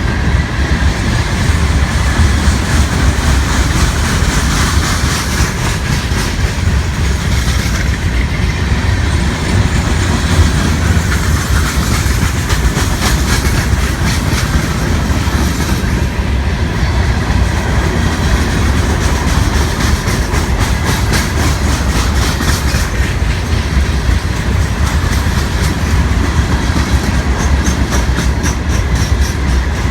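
Freight train cars rolling past at steady speed, wheels clicking over the rail joints over a constant low rumble.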